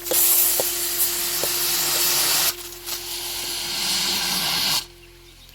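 Loud hissing noise in two stretches, the first about two and a half seconds long and the second about two seconds, each starting and stopping abruptly. A faint held musical note sounds beneath it.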